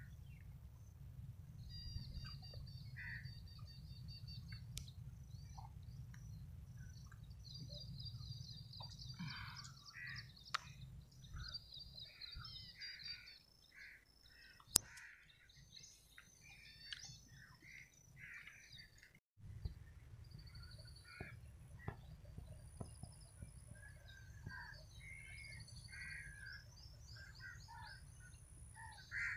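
Several birds calling and chirping, with rapid trilled calls and short notes and, in the last third, a high thin note repeated at intervals, over a low steady rumble.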